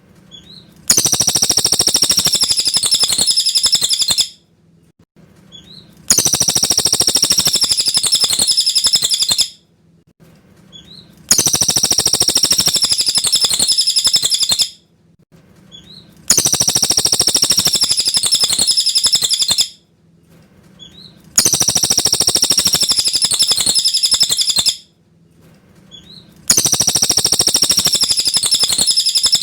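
Cililin bird singing a clear, high-pitched song in bouts of about three seconds with short pauses between them. The same phrase comes round six times at an even pace.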